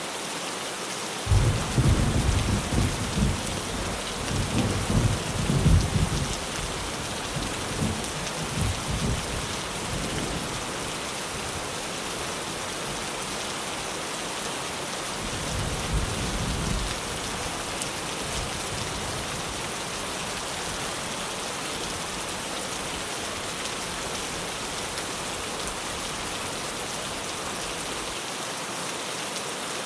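Heavy rain drumming steadily on a tin roof, with a rumble of thunder starting about a second in and rolling off over several seconds, then a second, shorter rumble about halfway through.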